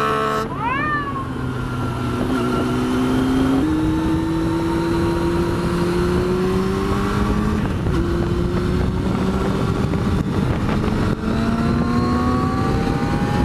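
Yamaha FZR600 inline-four motorcycle engine pulling under way, on freshly cleaned carburettors. There is a quick rising rev just after the start. The revs then climb steadily and drop back twice at gear changes.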